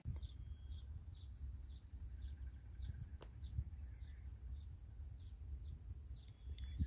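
Faint outdoor ambience: a bird calling with short, high chirps about twice a second, over a low rumble. A single sharp click about three seconds in.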